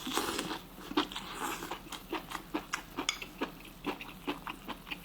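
A person chewing crisp hot-pot-blanched beef tripe close to the microphone: irregular crunches, several a second.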